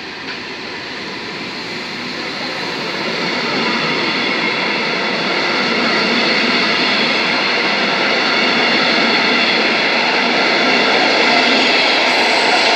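Passenger train coaches rolling past on the rails as the train pulls out of the station: a steady rumble and rush of wheels on track with a faint high ring, growing steadily louder as it picks up speed.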